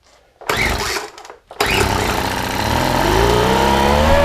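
Poulan Pro SM400 leaf blower's two-stroke engine being pull-started: a brief burst of firing about half a second in, then it catches about a second and a half in and keeps running, its pitch rising over the last second or so. It is running on a little gasoline poured into the combustion chamber, after a new piston ring cured its low compression.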